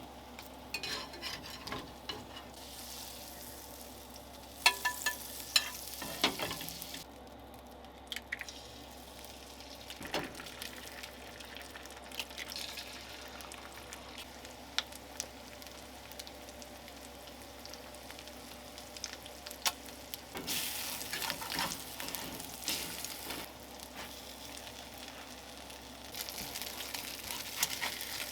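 Food sizzling in a frying pan, the sizzle growing louder for stretches near the end, with scattered sharp clicks of a utensil against the pan.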